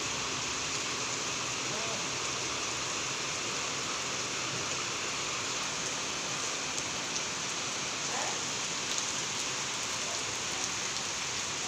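Steady rain falling, an even hiss with a few small drop ticks.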